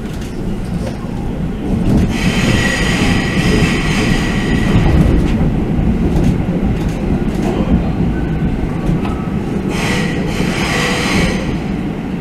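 Electric commuter train pulling out of the platform: a steady low rumble, with a high wheel squeal about two seconds in and again briefly near ten seconds.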